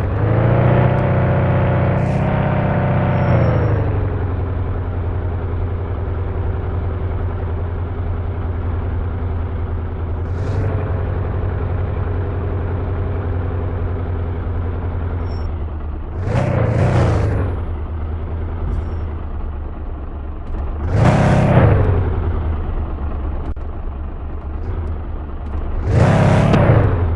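Fiat Doblo van's engine running on the move, its pitch rising and falling with the revs in the first few seconds and then holding steady. Three times a brief rush of louder noise swells and falls away.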